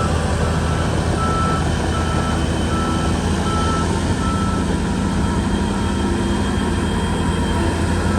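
SHANTUI bulldozer's diesel engine running steadily while its reversing alarm beeps about once every three quarters of a second, a sign the dozer is backing up.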